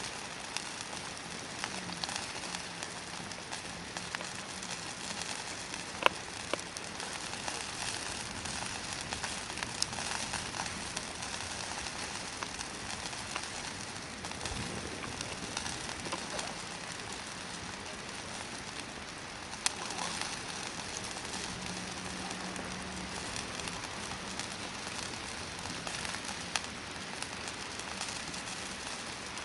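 Hardwood campfire burning with a steady hiss and scattered crackles, with a few sharp pops. A low steady tone, like a distant coo, sounds twice: once about two seconds in and again a little past twenty seconds.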